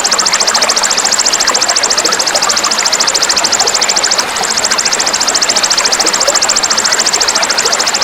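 A small songbird's coarse, dense trill, used as a mastering fill: a rapid, even stream of high rasping pulses that breaks off briefly about four seconds in, then resumes. Running water babbles beneath it.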